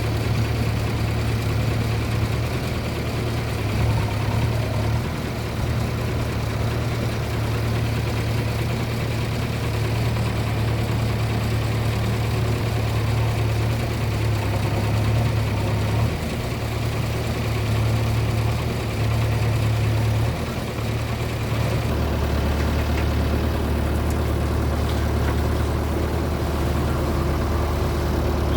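Heavy diesel engine running steadily near idle, its note dropping lower about twenty-two seconds in.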